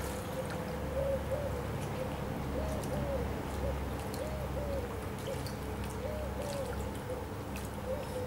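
A bird cooing in short rising-and-falling notes, mostly in pairs, every second or two, over a steady hum at about the same pitch.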